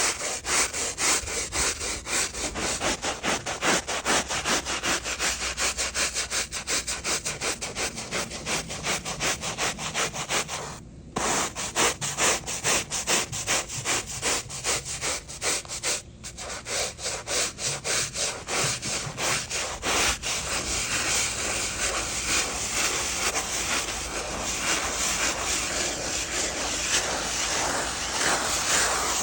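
Stiff brush scrubbing rough, mossy tarmac through dirty foam in quick back-and-forth strokes, a gritty rasping texture. It stops briefly about eleven seconds in and again around sixteen seconds. From about twenty seconds the separate strokes blur into a steadier, continuous scrub.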